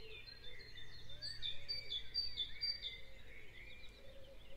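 Faint bird calls and chirps in the background, with a quick run of short, high chirps about a second and a half in.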